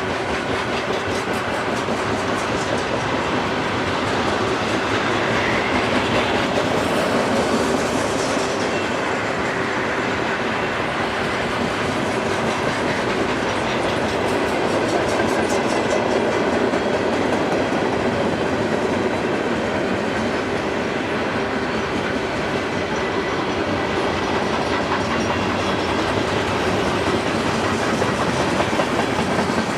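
Freight train's cars rolling steadily past, wheels running on the rails.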